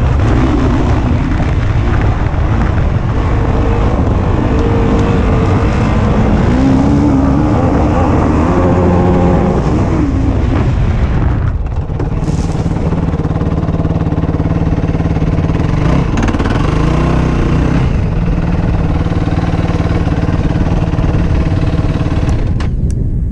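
Yamaha YFZ450 quad's single-cylinder four-stroke engine revving up and down under load as it is ridden. The throttle is chopped briefly about twelve seconds in, then the engine pulls again.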